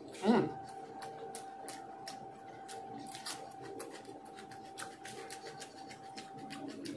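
A man chewing aloo samosa close to the microphone, with many small mouth clicks and smacks. About a third of a second in there is a brief hum that falls in pitch. A faint steady whine sits underneath until shortly before the end.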